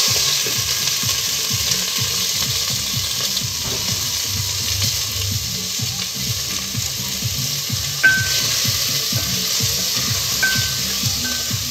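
Food frying in a pot on the hob, a steady sizzling hiss.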